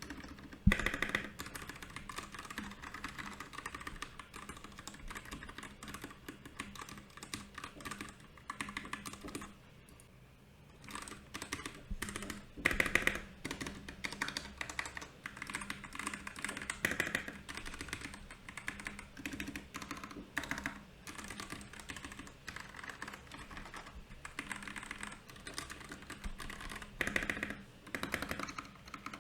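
Continuous typing on a Royal Kludge RK68 mechanical keyboard: a dense run of key clicks and clacks, with a brief pause about ten seconds in and a few louder bursts of strokes.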